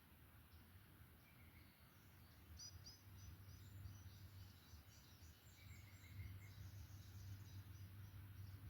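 Faint forest birdsong: small birds chirping and trilling, with quick runs of high repeated chirps starting about two and a half seconds in, over a low steady rumble.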